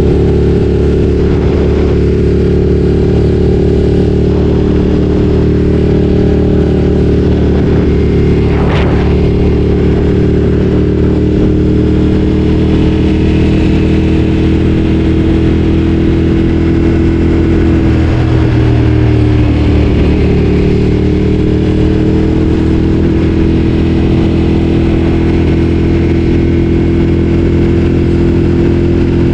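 Ducati Streetfighter 848's L-twin engine running steadily under way at a constant pace. The revs ease off briefly about two-thirds of the way through, then pick back up. There is a short sharp click about nine seconds in.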